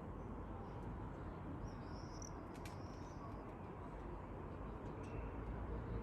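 A few short, high bird chirps about two seconds in, and one more near the end, over a steady low outdoor rumble.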